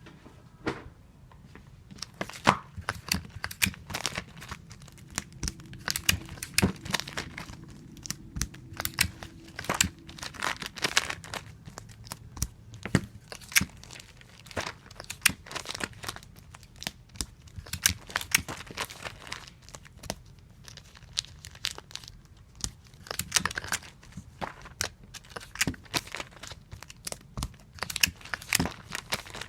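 Adhesive tape pulled off a tape dispenser and torn against its cutter again and again, with rustling as comic books are handled and taped. It is a quick, irregular string of snaps and rasps that starts about two seconds in.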